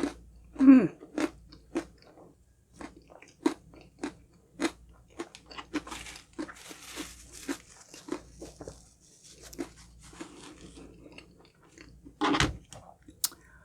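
Close-miked chewing and biting of a crunchy honey crunch cake, its crisp crunchy topping giving many short sharp crunches at irregular intervals. A brief falling hum comes about a second in.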